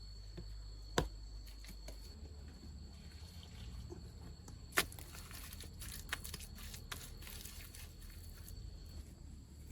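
Two sharp knocks, one about a second in and one near the middle, then a stretch of small clicks and rustling handling noise. Under it runs a steady high insect trill, like crickets, which stops near the end.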